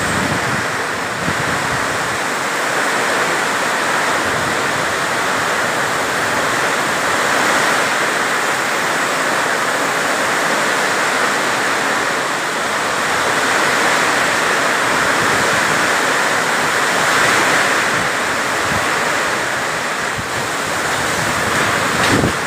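Heavy rain pouring down in a dense, steady hiss, with strong wind, slowly swelling and easing.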